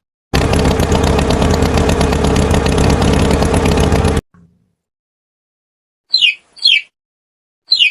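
Tractor engine sound effect running loudly for about four seconds, then cutting off suddenly. After a pause come two pairs of short, high chirps, each falling in pitch.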